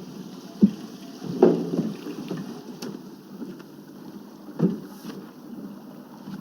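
A few short, dull knocks: one under a second in, one near a second and a half, and one near five seconds, over a steady low hiss.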